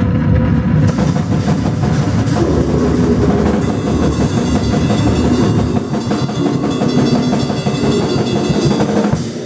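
Live noise music with a drum kit played fast and hard under a dense wall of noise, cutting off abruptly near the end.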